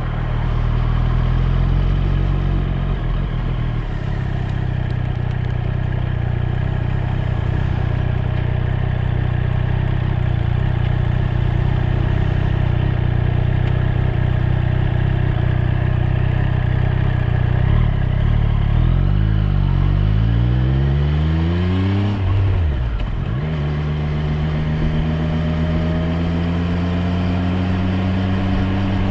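Triumph Street Triple 765 R's inline three-cylinder engine under way. It holds steady revs for most of the stretch, then climbs in pitch, drops suddenly, and settles back into a steady run that rises slowly near the end.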